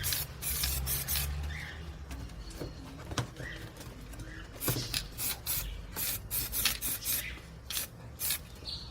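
Irregular rubbing strokes, a series of short scratchy swipes, some quick and close together.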